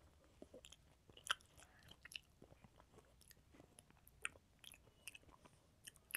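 Faint chewing of a mouthful of rice, with small scattered clicks and smacks from the mouth and from fingers mixing rice on the plate; a louder click about a second in and another about four seconds in.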